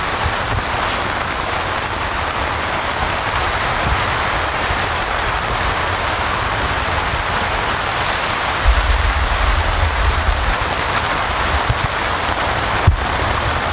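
Steady rain falling, an even hiss throughout, with a brief low rumble a little past the middle and a single sharp knock near the end.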